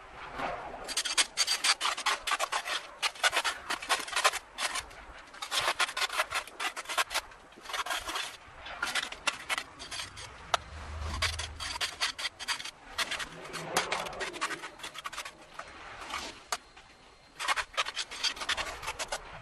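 Ice scraper scraping ice in quick, rasping strokes, with short breaks now and then.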